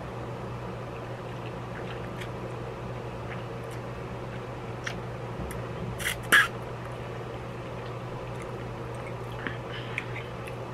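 Eating noodles: wet mouth sounds of slurping and chewing, with scattered small clicks and one louder brief smack about six seconds in, over a steady low hum.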